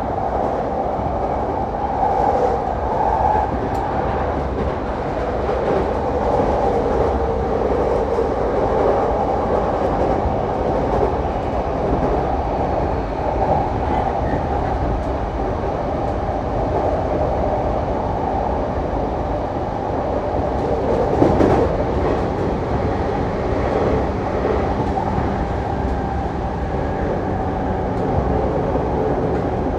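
JR Saikyō Line commuter electric train running at speed, heard from inside the passenger car: a steady rumble and rolling hum of wheels on rail, with one short sharp clack about two-thirds of the way through.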